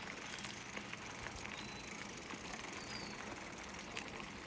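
Bicycle rolling over a dirt trail: a steady noise of tyres on ground with scattered small clicks and rattles, and a couple of short high chirps.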